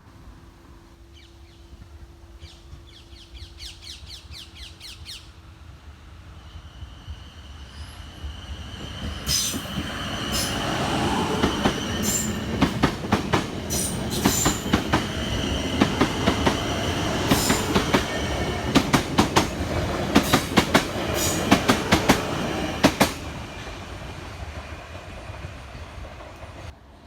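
A train passing by on the line: it builds up over several seconds, then its wheels clatter over the rail joints in a long run of sharp clicks, with a steady high tone above. Near the end it fades away.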